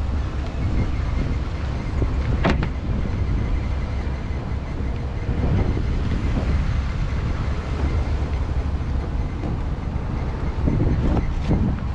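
Wind buffeting the microphone, a steady low rumble, with a sharp click about two and a half seconds in and a few knocks near the end.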